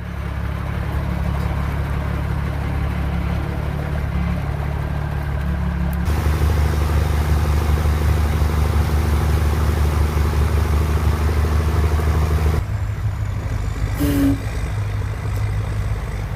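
M939-series 5-ton military truck's diesel engine running steadily, its sound changing abruptly twice. A brief sharp sound comes about two seconds before the end.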